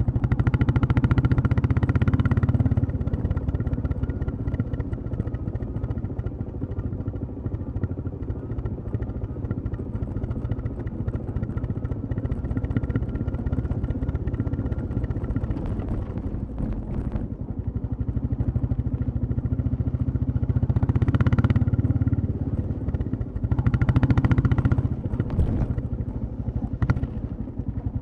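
Royal Enfield Classic 350 single-cylinder engine and exhaust running under way, getting louder as the throttle opens at the start, again about two-thirds through and once more near the end, and easing off in between.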